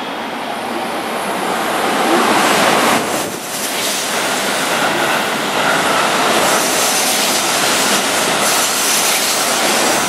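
Keihan 3000-series express train running past along the platform: a steady rushing train noise, with a short dip about three seconds in.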